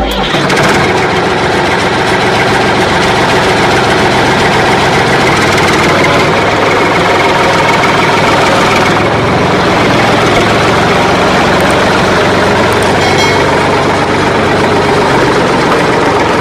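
Vehicle engine running loudly and steadily. It cuts in suddenly as the music before it stops.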